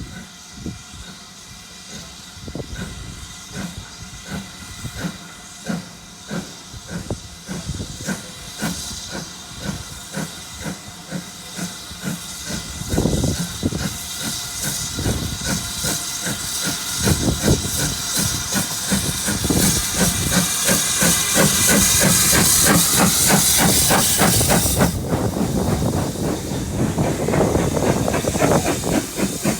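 Steam locomotive working hard, its exhaust beats growing louder and quickening, with loud steam hiss in the last few seconds.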